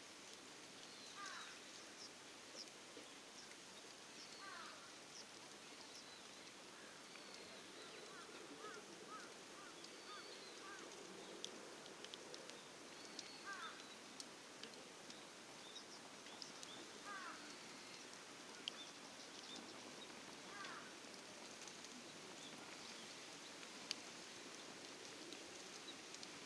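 Wild birds calling faintly: a short swooping call repeated every three to four seconds, with thinner high chirps between, and a few sharp faint clicks.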